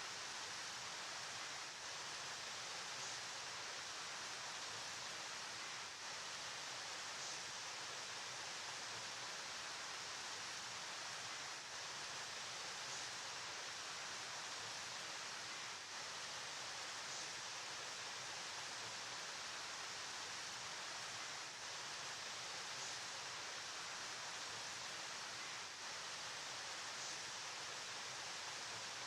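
Steady rushing of a flowing river, an even unbroken hiss weighted toward the upper range, with no distinct splashes or other events.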